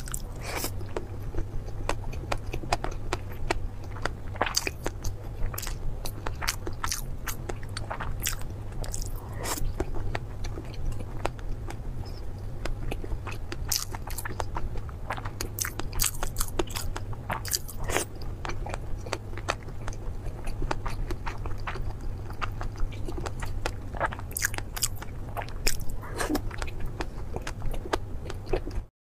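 Close-miked chewing and biting of salmon rolls topped with fish roe: wet mouth sounds with many sharp little clicks and crunches, over a low steady hum. It cuts off suddenly near the end.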